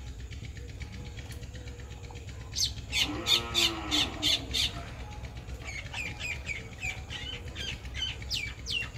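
Birds calling: a run of sharp chirps with a longer, lower squawk that falls in pitch about three seconds in, then quick, repeated downward-sweeping chirps through the last few seconds.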